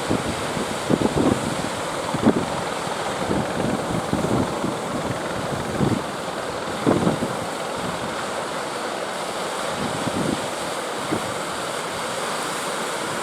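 Strong wind buffeting the microphone in short, irregular thumps over a steady rush of sea surf.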